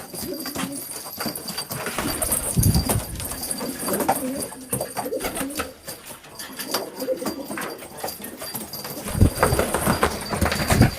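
Domestic pigeons cooing, with many scattered sharp clicks and knocks and low rumbling thumps about two and a half seconds in and again near the end.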